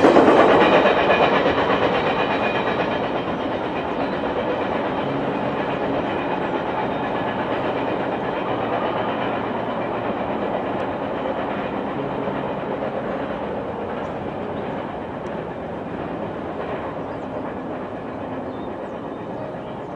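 Double-stack container freight train's wheels running on the rails as its last cars pass and it moves away. The sound is loud at first, drops over the first few seconds, then goes on steadily and slowly fades.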